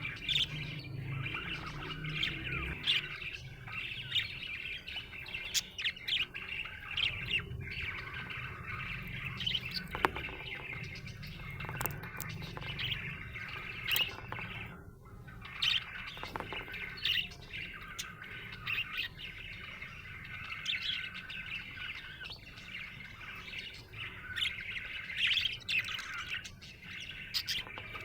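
Budgerigar chirping and chattering, a steady stream of quick chirps and warbles with no pauses, with one sharp click about ten seconds in.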